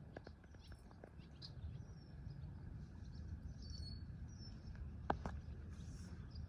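Faint birds chirping, short high calls and little gliding notes scattered throughout, over a low steady rumble, with a pair of sharp clicks about five seconds in.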